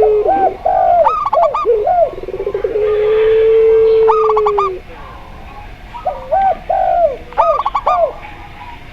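Doves cooing: zebra dove, spotted dove and puter pelung calling together. Runs of short hooked coo notes at the start and again near the end, with one long, steady, drawn-out low coo held for about two seconds in the middle.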